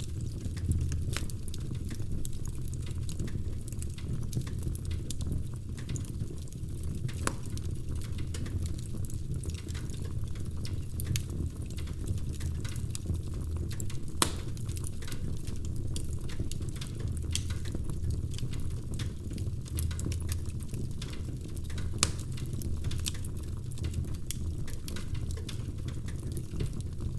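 Wood fire crackling in a fireplace: a steady low rumble under frequent small crackles, with a few sharper pops, the loudest about 14 and 22 seconds in.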